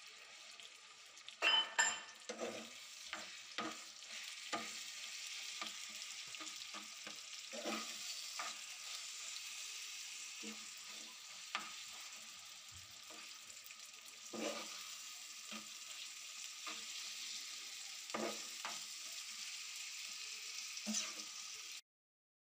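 Chicken mince sizzling in ghee on a flat iron tawa, with a metal spatula scraping and clicking against the pan at irregular intervals as the mince is stirred and broken up. The sound cuts off suddenly near the end.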